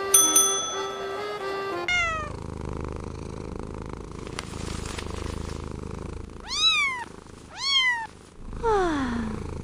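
A few held musical notes, then a cat meowing: one falling meow about two seconds in, two short rising-and-falling meows close together later on, and a long falling meow near the end, with low purring between them.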